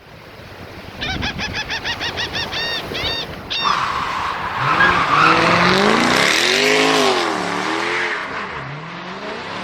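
A quick run of short repeated chirps that speed up, then a vehicle engine revving, its pitch rising and falling several times.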